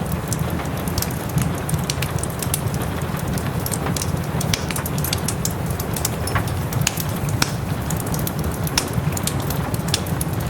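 Fireplace fire crackling, with frequent sharp, irregular pops, over a steady sound of soft rain.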